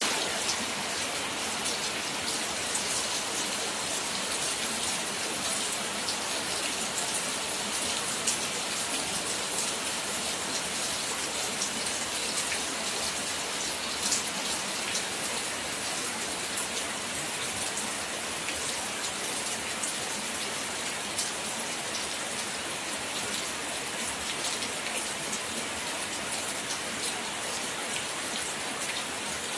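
Steady rain falling, with many sharp single drop hits over an even hiss.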